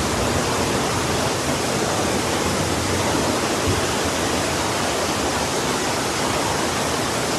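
Heavy rain and rushing floodwater: a steady, loud, dense roar of water that does not let up.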